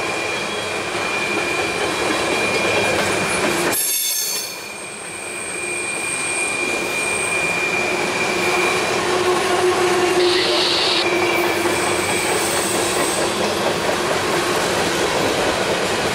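Freight-train flatcars loaded with trash containers rolling steadily past, with thin high-pitched squeals from the steel wheels on the rails. The noise dips briefly about four seconds in, and short sharper squeals come around ten seconds in.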